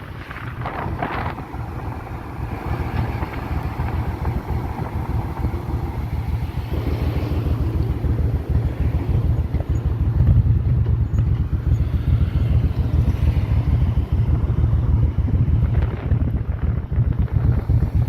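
Motorcycle engine running while riding, its rapid firing pulses under wind rushing over the microphone. It grows louder about halfway through.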